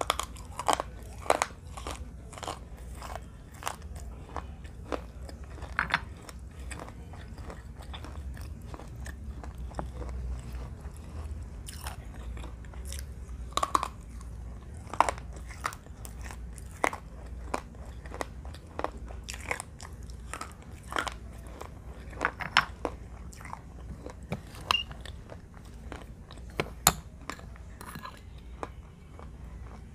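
Close-up crunching as pieces of baked red clay are bitten and chewed: sharp, irregular cracks every second or so, with chewing in between. A low steady hum runs underneath.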